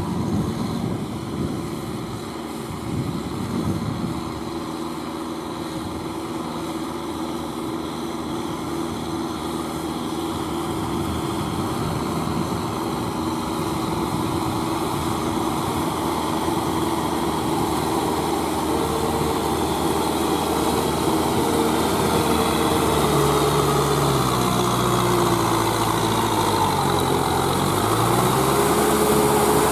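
Kubota M6040SU tractor's four-cylinder diesel engine running under load while tilling wet paddy mud, growing gradually louder. In the second half its pitch sags and recovers a few times as the load changes.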